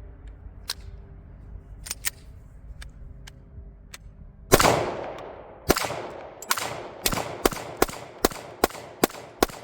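Gunshots from a firearm at close range: a few faint cracks early, then a rapid string of about ten shots beginning about halfway through, two to three a second, each with an echoing tail.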